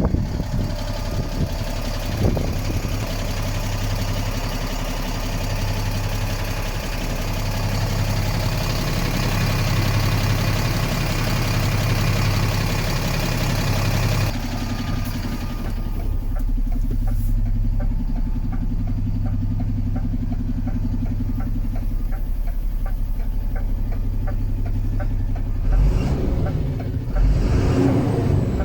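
DAF CF 65.220 truck's six-cylinder diesel engine idling steadily with a low pulsing note. About halfway through, the sound turns duller, as if heard through the body of the truck. A few louder knocks and a short swell come near the end.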